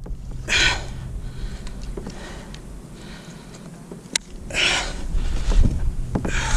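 A person breathing hard close to the microphone: three long, noisy breaths about four seconds apart over a low rumble, with one sharp click between them. The angler is catching his breath after landing a big snook.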